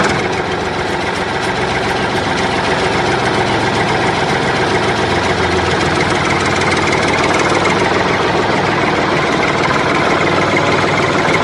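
A motor running steadily, growing slightly louder over the first few seconds.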